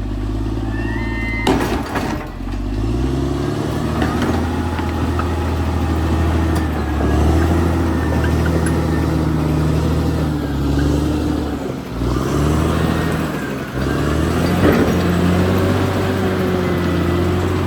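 Caterpillar D6R XL bulldozer's diesel engine running steadily under load. Its pitch rises about two seconds in and dips briefly twice near the end, with a few sharp clanks from the machine, loudest near the start.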